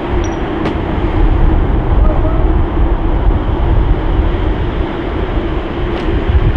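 Loud steady rumble with a constant hum: jet aircraft engines running close by.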